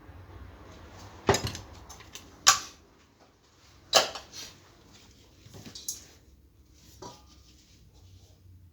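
Several sharp clinks and knocks, about five of them spaced a second or so apart, from parts and tools being handled during an industrial fan repair.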